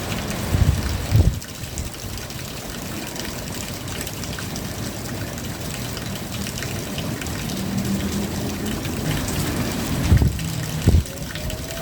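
Steady rain falling as a continuous hiss, with a few low thumps near the start and again about ten seconds in.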